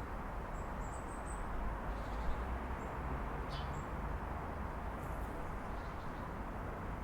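Steady hum of city traffic heard through an open window, with a few faint, high bird chirps about a second in and a short falling chirp near the middle.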